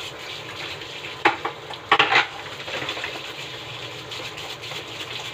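Chicken simmering in cooking cream, sizzling steadily in a pan, with a utensil scraping the pan loudly once about a second in and again about two seconds in as it is stirred.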